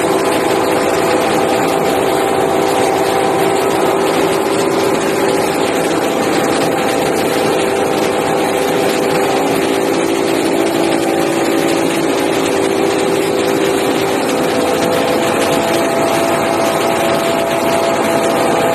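Rice milling machine running, a loud, steady mechanical drone with a few held hum tones and no change in speed.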